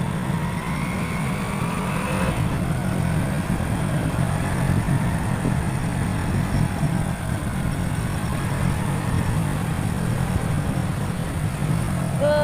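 Motorcycle engine running as the bike rides off, a whine rising over the first two seconds as it picks up speed over a steady low rumble.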